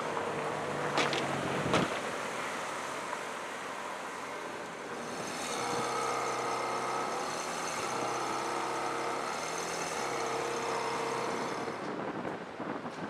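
Ferrari 430 Scuderia's 4.3-litre V8 running at low speed as the car creeps past, with two sharp cracks about a second apart early on. The engine note grows fuller and steadier about halfway through, then falls away near the end.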